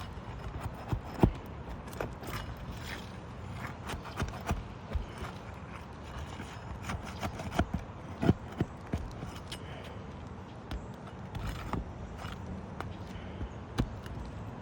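Irregular clicks, taps and scrapes of a hand tool working the nails out from under a roof shingle. A few sharper knocks stand out, about a second in and near the middle.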